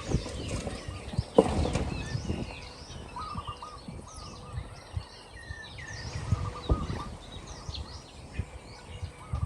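Many small birds chirping and calling, with short rising and falling notes throughout and a few repeated note series. Two sharp low thumps, about a second and a half in and near seven seconds, are the loudest sounds.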